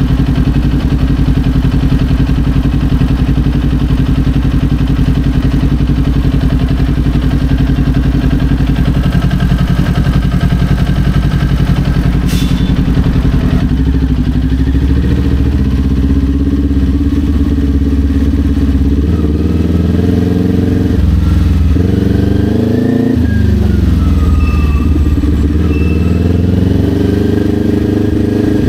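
Kawasaki Ninja 400's parallel-twin engine heard from the rider's position. It holds a steady note for about the first half, with one sharp click near the middle. Then the pitch rises and falls several times as the bike accelerates and shifts through the gears.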